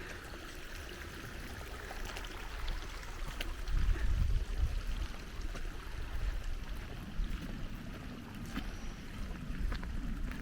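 Wind rumbling on the microphone in gusts, strongest about four seconds in, over a steady even hiss of outdoor air.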